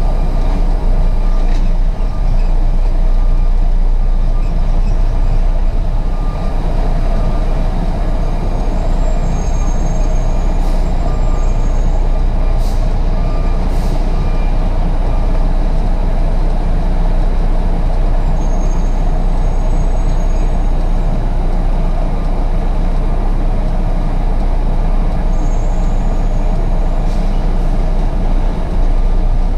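Diesel semi-truck engine running steadily, a continuous low rumble, with a few brief high squeaks and clicks.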